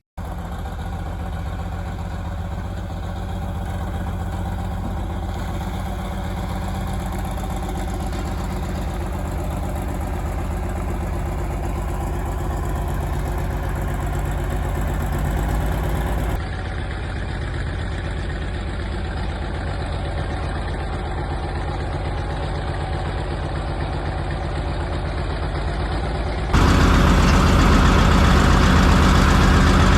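Monster truck's Cummins turbo-diesel engine running steadily at low revs, with no revving. The sound changes abruptly twice, about halfway through and near the end, and is louder after the second change.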